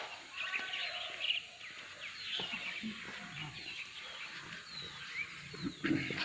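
Birds chirping and calling: many short chirps and quick whistled glides, scattered irregularly, over a faint steady hiss, with a brief low knock near the end.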